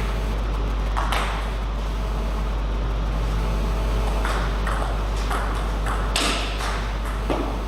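Table tennis ball being hit back and forth in a rally: sharp clicks of ball on bat and table, one about a second in and then a quick run about every half second over the last few seconds, over a steady low hum.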